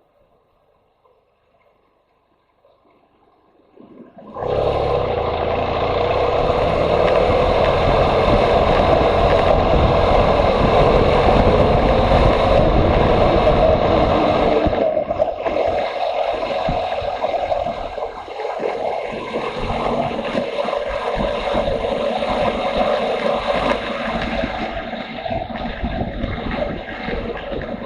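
Motorcycle engine running under way, with wind rushing and buffeting over the microphone. It sets in suddenly about four seconds in, after near quiet.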